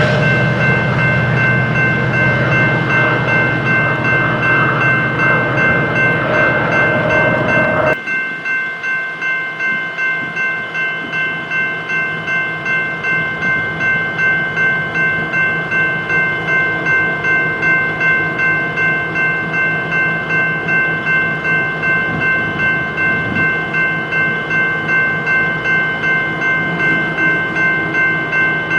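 BNSF coal train rolling by. A heavy low rumble drops away suddenly about eight seconds in, leaving the rolling cars. A steady high-pitched ringing pulses at an even beat throughout.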